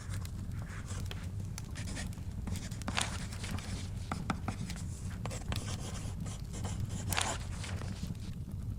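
Wood fire crackling over a steady low rumble, with paper book pages turned twice, about three seconds in and again about seven seconds in.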